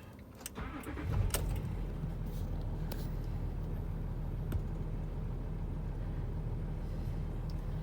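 Land Rover Discovery 3's 2.7-litre TDV6 V6 diesel engine starting about a second in, after a couple of clicks, then settling into a steady idle.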